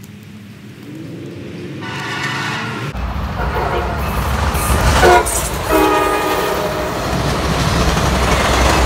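Locomotive air horn sounding several blasts as a train approaches. The low rumble of the train comes in about three seconds in and grows steadily louder.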